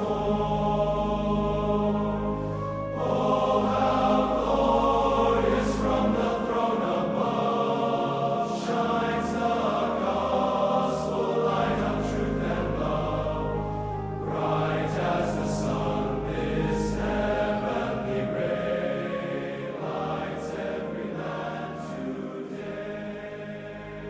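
Choir singing a slow hymn over sustained low accompaniment, fading out near the end.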